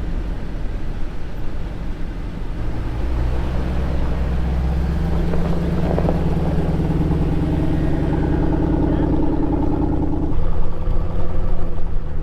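Vehicle engine running under load as a truck is driven in the snow. Its pitch rises about three seconds in and then holds steady, with a higher steady whine from about six seconds in that stops near ten seconds.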